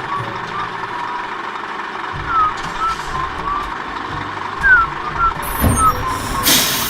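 Large truck sound effect: a steady engine rumble with scattered short chirps over it, ending in a loud air-brake hiss near the end.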